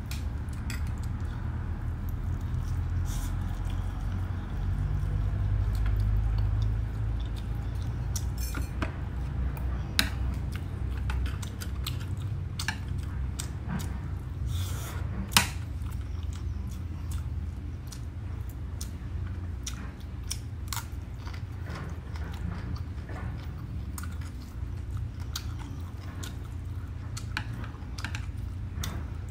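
Close-miked mukbang eating of crispy-skinned roast pork with rice and winged beans: chewing and crunching, with scattered sharp clicks, the loudest about fifteen seconds in. A steady low hum runs underneath.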